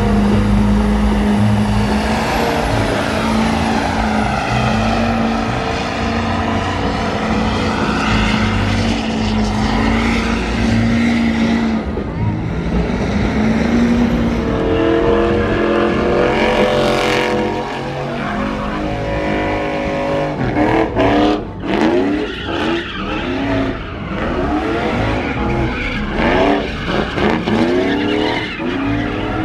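Engine held at high revs through a burnout, tires spinning, then revved up and down over and over from about halfway through.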